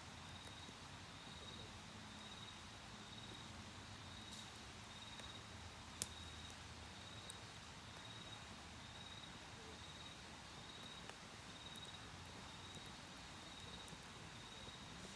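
An autumn cricket chirping steadily, a high pulsed note repeated about one and a half times a second. The campfire gives a single sharp pop about six seconds in, with a few fainter crackles around it.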